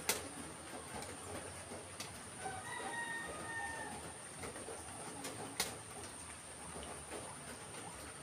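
Faint bird calls over a steady high-pitched tone, with two sharp clicks, one just after the start and one about five and a half seconds in.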